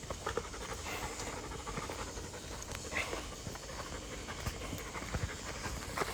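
Belgian Malinois panting steadily, with small scattered ticks over it.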